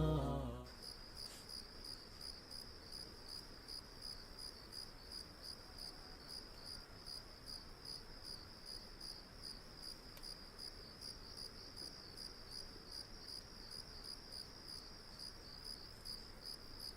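A cricket chirping steadily in a high, even pulse, about three chirps a second.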